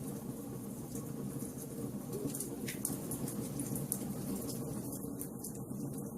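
Wood fire burning in a fireplace: irregular sharp crackles and pops over a steady low rush of flame, with a brief hiss about three seconds in.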